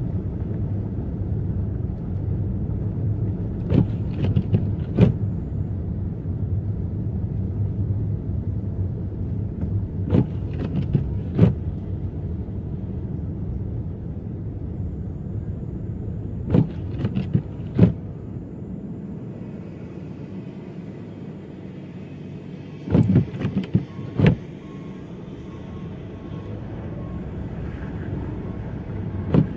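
Car driving on snowy streets, heard from inside: a steady low road and engine rumble that eases about two-thirds of the way through. Pairs of short knocks about a second apart repeat roughly every six seconds.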